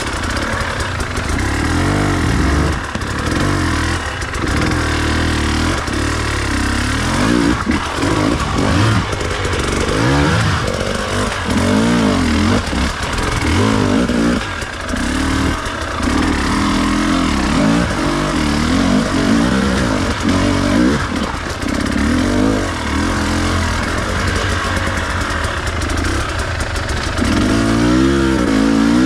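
Enduro dirt bike engine being ridden off-road, its revs rising and falling every second or two as the throttle is worked.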